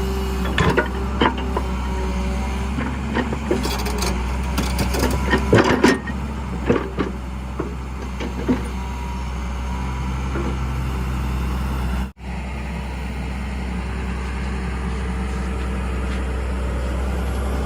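Heavy diesel machine engine running steadily, with irregular metallic clanks and knocks during the first half. The sound cuts out for an instant about twelve seconds in.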